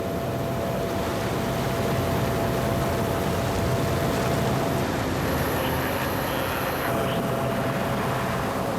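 Sea King rescue helicopter hovering: a steady rotor and engine noise with a faint, even whine over it.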